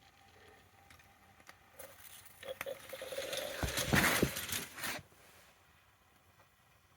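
Mamod toy steam locomotive letting off steam: a hiss with small clicks that builds from about two and a half seconds in, is loudest around four seconds, and cuts off suddenly about five seconds in.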